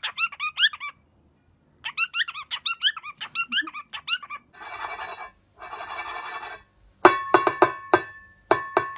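A bird giving quick runs of high squeaky chirps, several a second, in two bursts. These are followed by two harsh, hissing screeches about a second long each, and near the end a series of sharp clicks.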